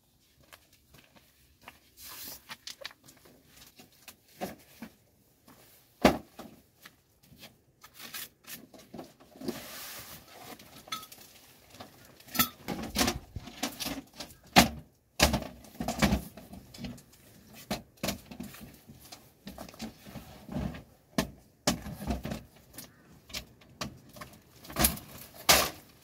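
Irregular knocks, clicks and clatter with rustling in between, as of camping gear being handled and set down.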